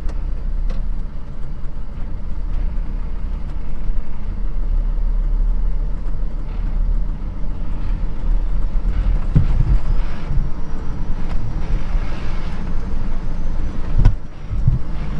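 Unimog truck on the move, its diesel engine running steadily with a low rumble; a couple of thumps about nine and fourteen seconds in.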